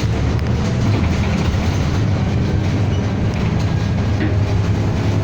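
Interior of a city bus under way: steady low engine and road rumble, with light rattles from the cabin.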